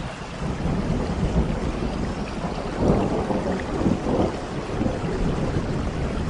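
Rolling thunder over steady rain: a deep rumble swells in the first second and is loudest about three to four seconds in.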